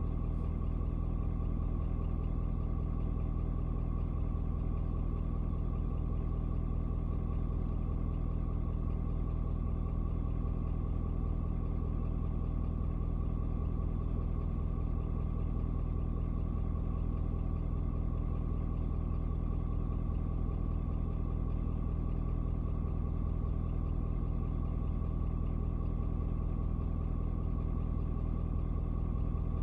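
Ford Super Duty's 6.7-litre Power Stroke turbo-diesel V8 idling steadily. About twelve minutes after a cold start, the engine is still warming up.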